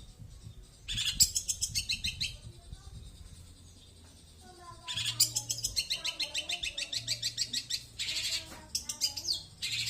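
Long-tailed shrike (cendet) singing in bursts of fast, repeated high notes. The longest run starts about five seconds in and lasts about three seconds.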